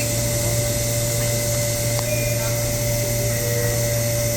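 Steady rushing noise of a New York City subway train, with a constant low hum and one steady higher tone running through it.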